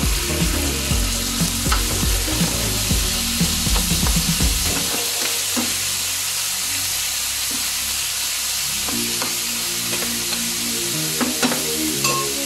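Raw pork slices and chopped onion sizzling in hot cooking oil in a frying pan, stirred with a spatula, with steady hissing and small crackles.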